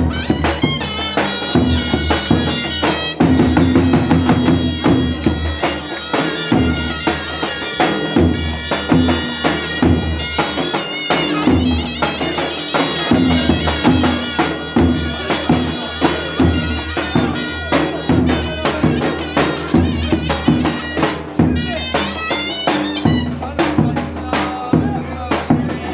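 Live Turkish Roman dance music: a clarinet playing a reedy melody with quick runs over a steady, regular drum beat.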